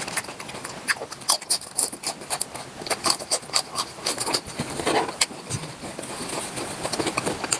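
Close-miked eating sounds: a quick, irregular run of clicks and smacks, several a second, as food is bitten and chewed.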